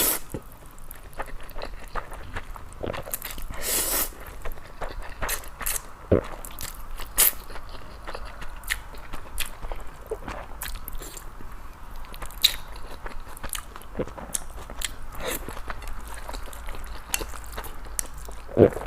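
A person chewing food close to the microphone, with many short wet mouth clicks and smacks, and a brief breathy rush of noise about four seconds in.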